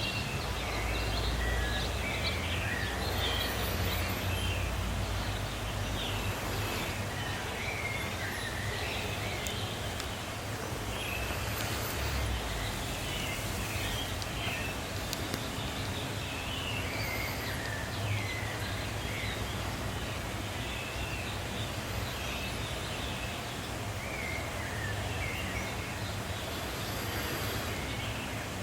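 Birds chirping over and over, short chirps scattered throughout, over a steady low rumble of outdoor background noise.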